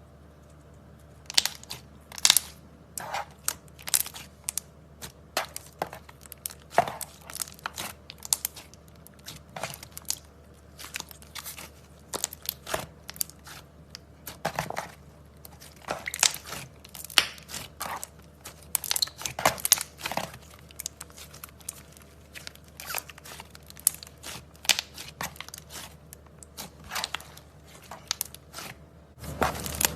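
Slime mixed with clay being pressed and kneaded by hand, making irregular sharp crackles and crunches, a few each second, starting about a second in. Just before the end the crackling turns denser and louder.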